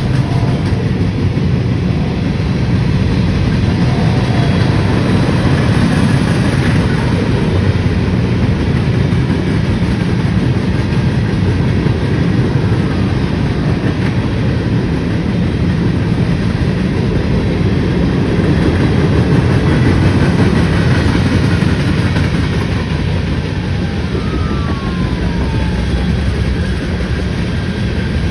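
A train passing, its cars rolling over the rails in a steady, loud rumble.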